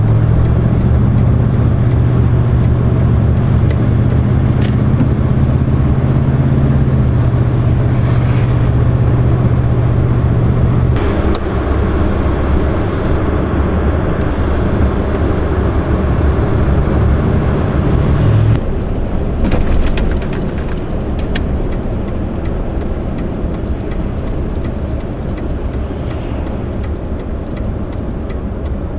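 A car driving: steady low engine hum over road and tyre noise. The engine tone fades about 18 seconds in, leaving the road noise and faint light clicks.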